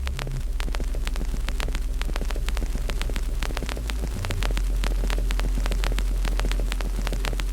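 Wood fire crackling with many small, irregular pops over a steady low rumble, which grows louder about four seconds in.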